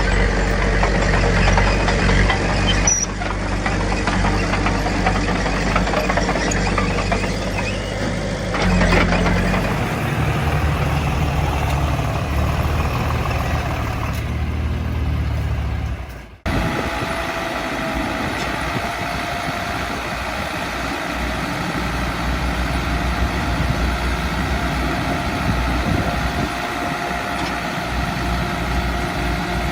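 Diesel earthmoving machinery engines running steadily. About halfway through, the sound breaks off abruptly and resumes as a steadier engine with a faint whine.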